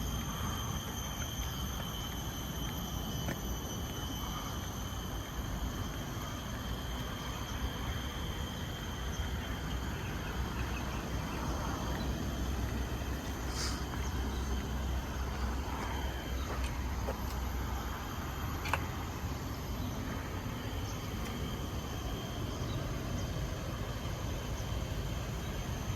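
Forest ambience: a steady, high-pitched drone of tropical insects over a constant low rumble, with a short high chirp about halfway through.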